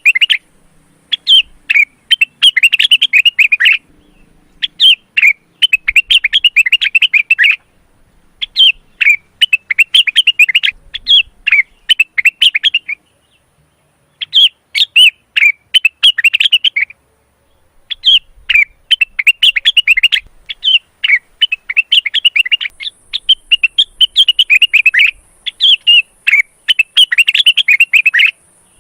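Male cucak wilis (rengganis) bulbul singing in breeding condition. It gives repeated phrases of fast, sharp chirping notes, each a few seconds long, with short pauses between them.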